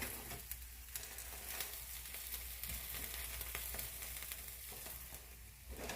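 Steak and cheese omelet frying in a pan: a steady, faint sizzle with light scattered crackles.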